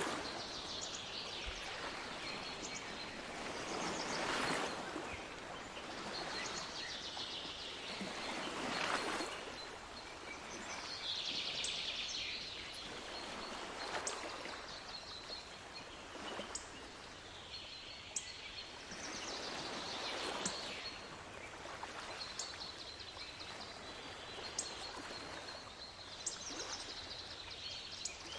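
Waves washing onto a shore, the water noise swelling and falling back every few seconds. Small birds chirp and trill over it, with short sharp calls throughout.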